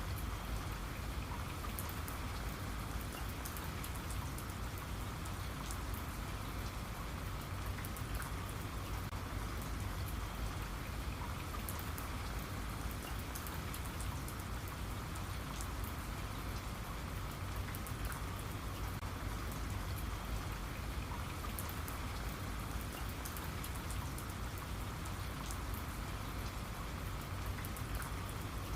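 Steady rain falling, with many fine drop ticks over an even patter on a surface.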